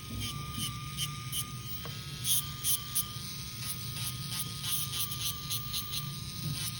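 Electric nail drill running with a steady high whine, its bit scraping gel polish off a nail in short irregular scratchy strokes.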